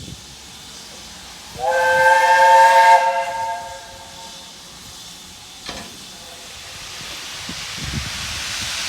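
Steam locomotive whistle sounding one blast of about a second and a half, a chord of several tones, about one and a half seconds in. Steam hiss builds up toward the end.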